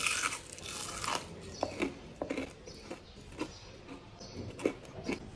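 A bite into a piece of crispy fried cauliflower with a loud crunch, followed by a second crunch about a second in. Then chewing, with short crisp crackles coming every half second or so.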